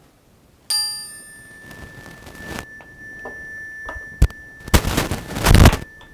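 A small bell struck once, ringing with several tones, one of which lingers. It is followed by handling clicks, a sharp knock and, near the end, a loud rush of noise lasting about a second.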